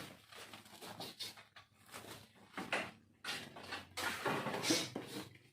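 Scattered light clinks and knocks of small hard objects being handled, irregular and with no steady rhythm.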